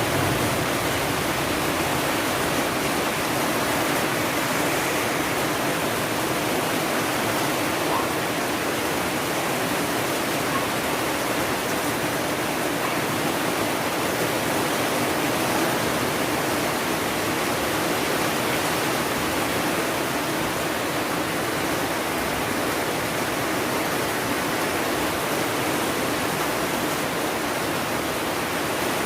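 Steady rain, an even rushing hiss with no breaks or separate drops standing out.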